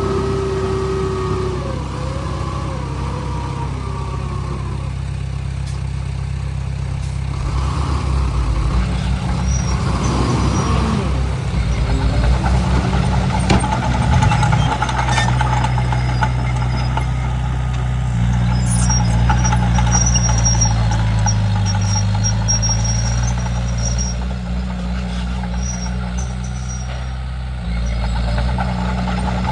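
Komatsu D31P bulldozer's diesel engine running under changing load, its pitch and loudness shifting several times as the machine works: louder from about seven seconds in, changing again halfway through and near the end.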